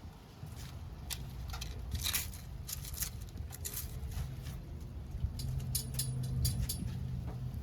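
Backyard wood fire crackling, with irregular sharp pops and snaps over a low rumble. A low steady hum joins about five seconds in.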